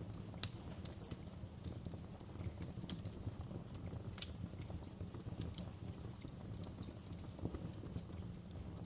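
Wood fire crackling in a fireplace: irregular sharp pops and snaps over a steady low rumble of the flames. The loudest pops come about half a second in and near the middle.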